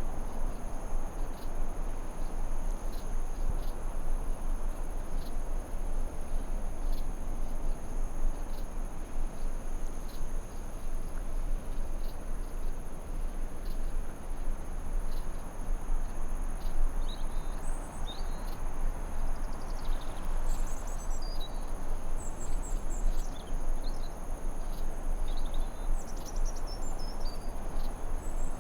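Forest ambience: a steady insect trill sounding as two constant high tones over an even rushing noise. From about two-thirds of the way in, a songbird adds short high chirps and twitters.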